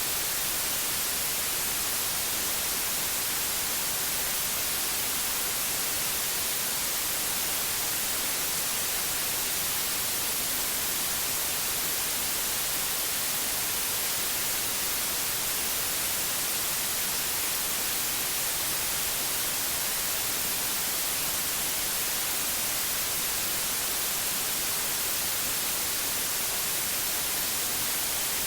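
Pure white noise: a steady, even hiss with no change in level, brightest in the high frequencies.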